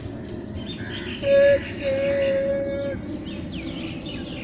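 A horn sounding twice, first a short loud blast, then a longer one, over a steady low traffic rumble. Birds chirp, mostly near the end.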